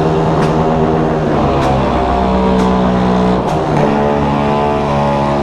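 Several motorcycle engines running together, revved and held at steady speeds, the pitches stepping up and down against each other, with a few sharp pops.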